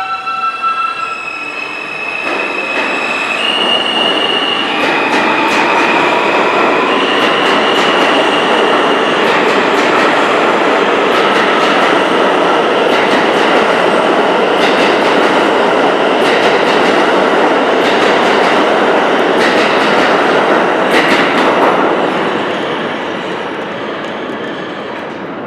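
R160A subway train accelerating out of the station. Its propulsion whine climbs in steps through several tones over the first eight seconds or so, then wheel and rail noise builds into a steady loud rumble with clicks over the rail joints. The rumble fades over the last few seconds as the train pulls away.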